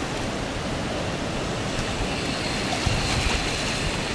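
Rushing river water, a steady noise, with a few low thumps about three seconds in.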